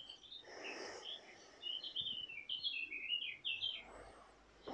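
Small songbird singing: a quick run of short, high chirped notes that step slightly downward in pitch. A short breathy sound comes about half a second in.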